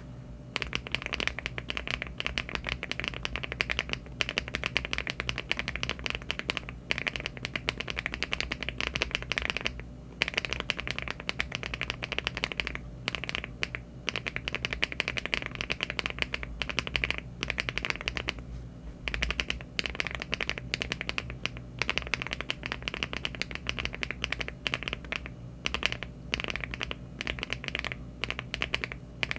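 Fast, continuous typing on a LEOBOG Hi75 aluminium-case mechanical keyboard fitted with HMX Duck Duck linear switches (50 g) and Cherry-profile keycaps: a dense stream of keystrokes starting about half a second in, with short pauses about ten, fourteen and nineteen seconds in.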